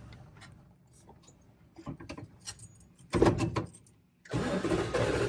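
Small clicks and handling noises inside an old pickup's cab, a louder clatter about three seconds in, then after a brief cut the truck's engine running steadily.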